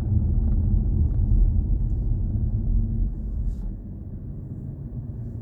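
Low road and tyre rumble inside the cabin of a moving BMW i4 M50 electric car, with a faint steady hum under it. The rumble eases off noticeably about three and a half seconds in.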